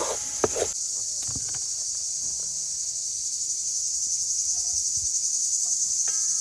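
Steady, high-pitched chorus of insects, strongest after the first second, with a few sharp clicks at the start.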